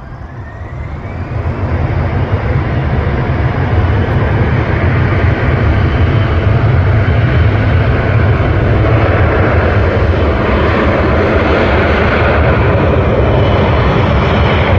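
An airliner's engines roaring close by, swelling over the first few seconds and then holding loud and steady, with a deep rumble underneath.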